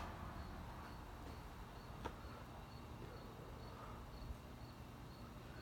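A cricket chirping steadily, about twice a second, over a faint low hum from a ceiling fan running on high, which runs very quietly with no bearing noise. A single short click comes about two seconds in.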